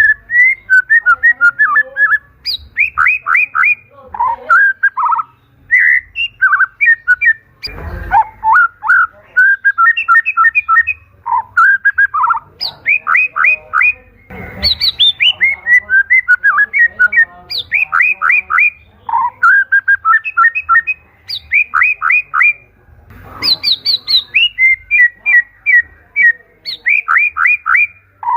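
White-rumped shama (murai batu) singing loudly and continuously: short whistled phrases of rapid repeated notes and single fluting notes, with brief pauses between phrases.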